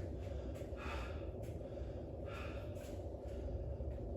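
A man breathing hard from exertion during a set of squats: two heavy breaths, about a second and two and a half seconds in, over a steady low hum.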